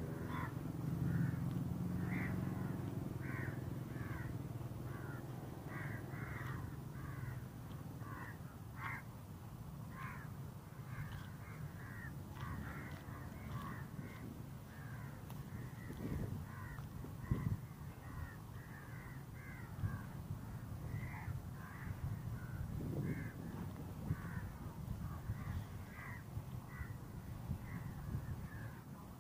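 Birds calling throughout, many short, clipped calls overlapping in quick succession. Under them a low rumble fades over the first few seconds, and a couple of dull thumps come about halfway through.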